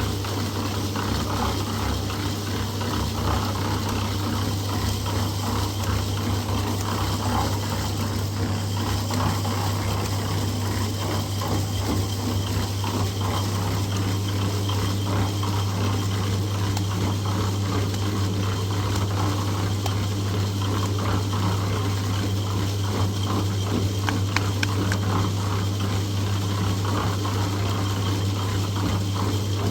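A machine running steadily with a constant low hum and a continuous rattle.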